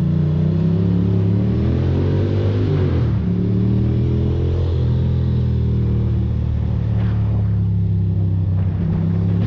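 Ducati Monster's L-twin engine running under way. Its pitch rises for a second or two, drops sharply about three seconds in, then holds steady.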